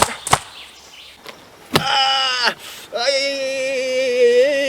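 A person's voice: a short falling cry about two seconds in, then a long drawn-out held cry, after two sharp clicks at the start.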